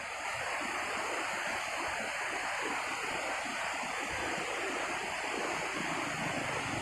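Small rain-fed waterfall: water falling and splashing in a steady, even rush.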